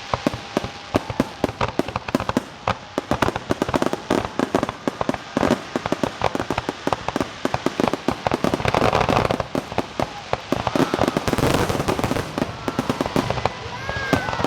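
Fireworks going off in rapid succession: a dense crackle of sharp pops, with a louder hissing burst about eleven seconds in and short rising-and-falling whistles near the end.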